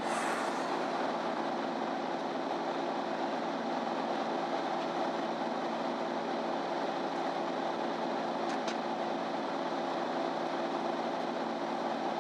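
Interior of a MAN Lion's City Ü bus on the move: steady diesel engine and road drone. A short hiss comes right at the start, and two faint clicks come about eight and a half seconds in.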